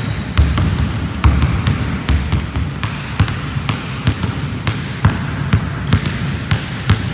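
Basketball dribbled hard on a court, bouncing two or three times a second in an uneven rhythm, with short high squeaks between the bounces.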